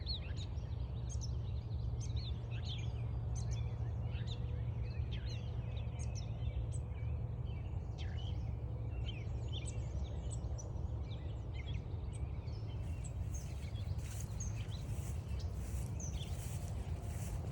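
Birdsong from several wild birds, many short chirps and trills overlapping, over a steady low rumble. Near the end a run of regular faint scuffs joins in.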